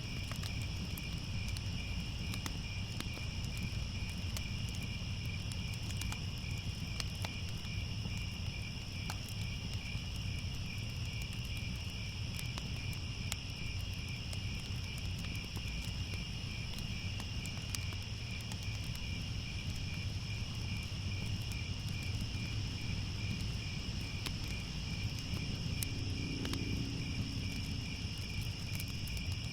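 Crickets chirping in a steady, continuous chorus, over the faint scattered crackles of a wood fire and a low rumble. A short low sound comes in near the end.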